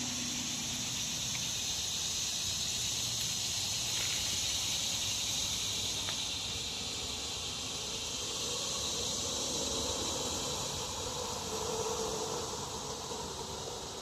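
Steady high-pitched chorus of insects droning without a break, over a low, even background rush.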